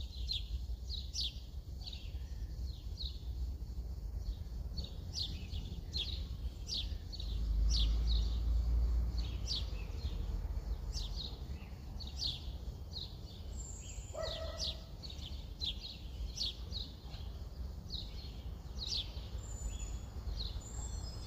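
Small birds chirping: short, high, downward-sliding chirps repeated again and again, over a steady low outdoor rumble that swells for a moment about seven seconds in.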